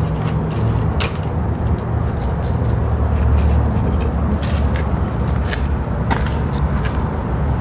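Light clicks and ticks of steel tie wire being pushed into holes drilled in concrete, over a steady low rumble.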